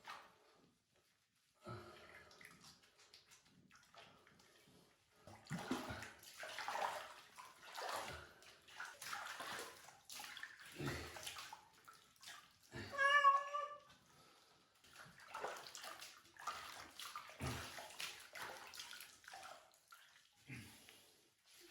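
Water splashing in uneven bursts as a cat is washed in a bath, with one loud cat meow a little past halfway.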